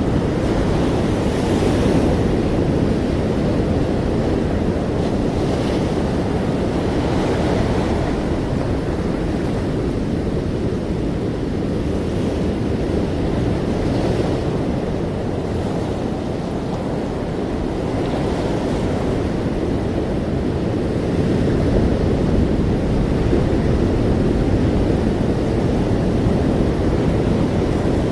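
Ocean waves washing in a steady low rush, swelling and easing every few seconds, with a rumble that could be wind on the microphone.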